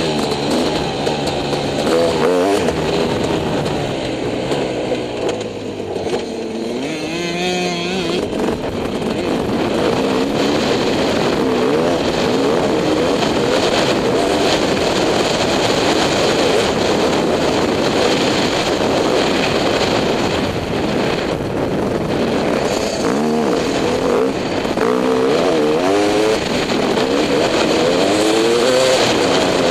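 Dirt bike engine running as it is ridden, its pitch rising and falling repeatedly with the throttle and gear changes.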